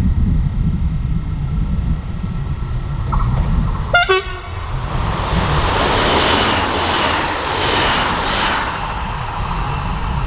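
A train horn sounds one short blast about four seconds in. It is followed by the rushing noise of a train passing on the line, building up and staying loud, over a steady low rumble.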